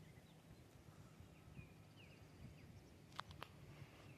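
Faint, short bird chirps over near silence, with two sharp clicks close together about three seconds in.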